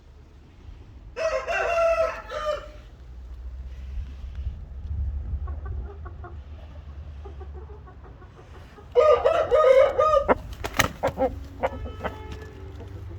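Black Shamo gamecock crowing twice, the crows several seconds apart. After the second crow come a few sharp clicks and a shorter call.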